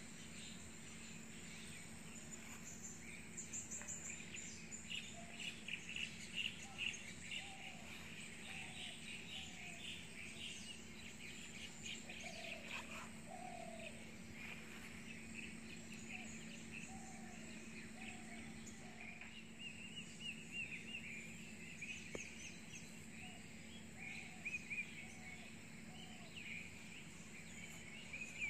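Wild birds calling in forest: many short high chirps and twitters, and a lower call of short notes repeated in pairs, over a steady low hum.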